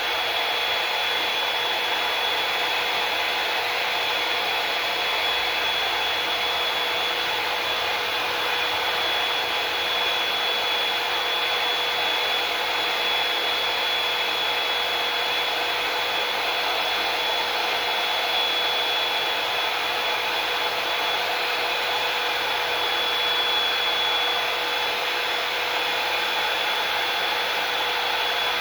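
Handheld hair dryer blowing steadily on hair, an even rushing noise with a constant high whine.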